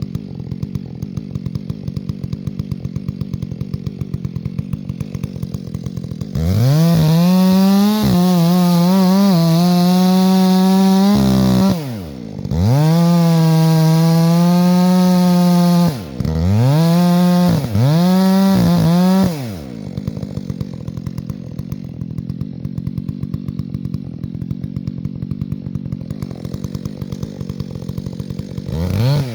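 Two-stroke chainsaw idling, then opened up to full throttle about six seconds in, with the pitch dipping and wavering. It runs in three full-throttle stretches of a few seconds each, drops back to idle about twenty seconds in, and revs briefly once more near the end.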